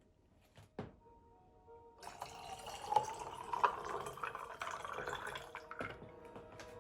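A couple of drips, then liquid poured steadily into a vessel from about two seconds in, fading after about four seconds, over soft background music.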